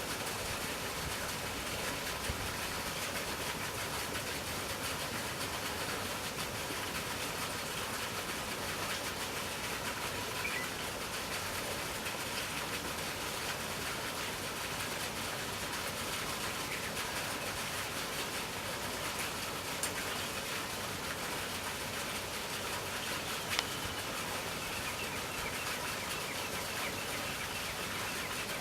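Steady outdoor background noise, an even hiss with no clear bird calls, and a single sharp click near the end.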